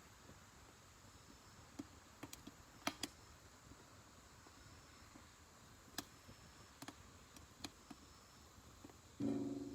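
Wood fire in a Solo Stove Ranger fire pit crackling faintly, with sparse sharp pops and snaps. Near the end comes a louder, short, low ringing sound that fades away.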